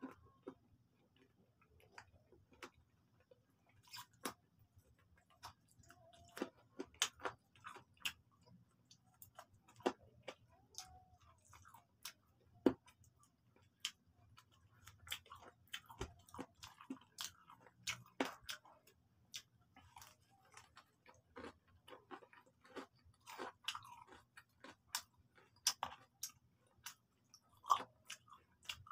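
Close-up eating sounds of fried chicken being chewed and bitten off the bone: wet mouth noises and irregular sharp clicks, with no talking.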